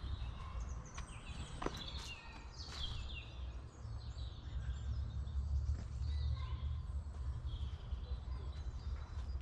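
Woodland birds chirping and calling, several short calls overlapping, over a steady low rumble, with a few sharp clicks about two seconds in.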